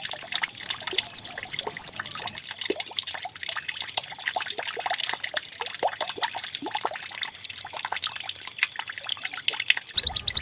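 A white-eye (pleci) sings a fast, loud trill of rapidly repeated sweeping notes for about two seconds. Then comes a quieter stretch of trickling, water-like sound with faint scattered chirps, and the trill resumes near the end.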